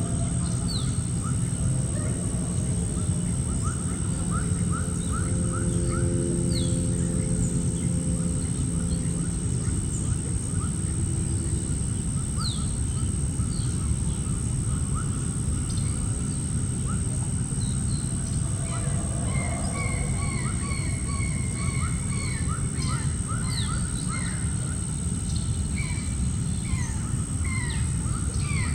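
Birds calling outdoors: many short, falling calls that grow much busier in the second half, over a steady low background noise.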